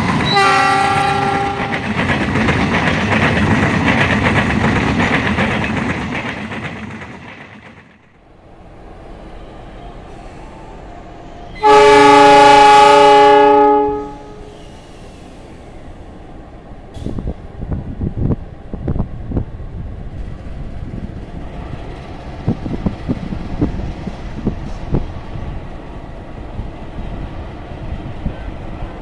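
A CC 206 diesel-electric locomotive sounds its horn and its train passes close by, the engine and wheel noise loud and then fading out over about seven seconds. After a short gap, a CC 206 horn blasts for about two seconds, the loudest sound, as the locomotive heading the standing passenger train signals its departure; irregular clanks and knocks of the rolling stock follow.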